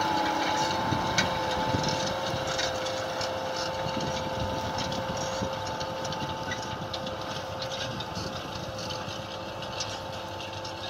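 Renault Ares 640 tractor engine running steadily under ploughing, with a steady whine over the engine noise, gradually getting quieter.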